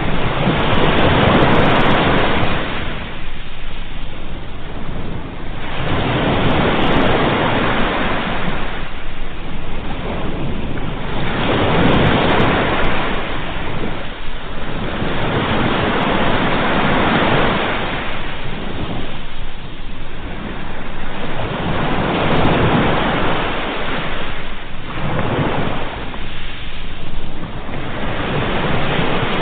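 Ocean waves breaking and washing in on the shore, the surf swelling and falling back about every five seconds.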